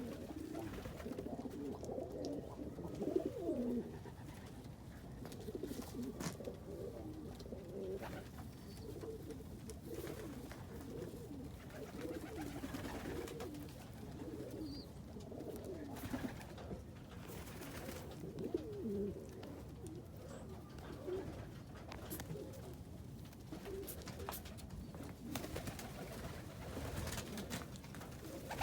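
Indian Fantail pigeons cooing, with coos overlapping one another without pause and a few light clicks among them.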